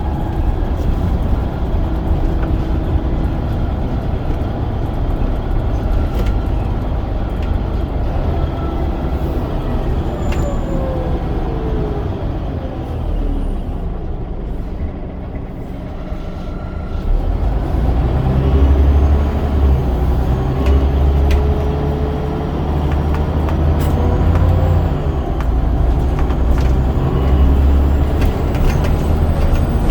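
Scania DC9 9.0-litre diesel engine of a double-decker bus with a ZF Ecomat automatic gearbox, running on the road. Its pitch falls and the sound quietens about halfway through, then it works harder and louder again with a rising pitch.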